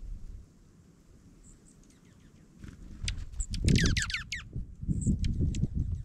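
Small songbirds chirping: a quick run of high, falling chirps about halfway through, with a few faint notes around it, over low rumbling thumps.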